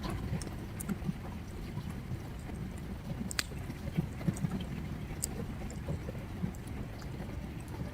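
River water gurgling and flowing in a steady low rush, with a few sharp crackles and pops from a wood campfire, one clearest about three and a half seconds in.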